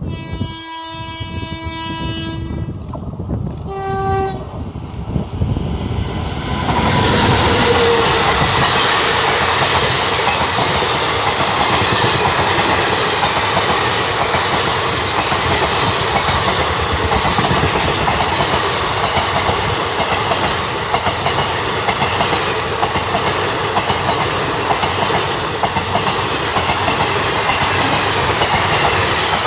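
Diesel locomotive horn sounding one long blast, then a short second blast about four seconds in. From about six seconds a train passes close by, its wheels rolling and clattering over the rail joints, loud and steady to the end.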